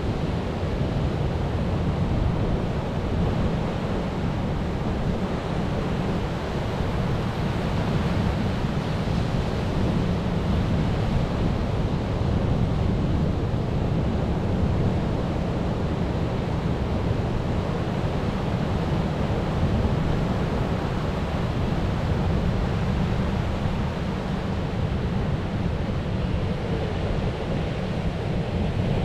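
Sea waves and surf rushing continuously, a steady wash of noise that is heaviest in the low rumble, with no single breaker standing out.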